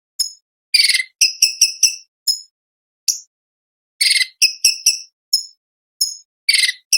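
Orange-bellied leafbird singing: repeated phrases, each opening with a short harsh rattle and running into a quick series of sharp, high chip notes, with brief pauses between phrases.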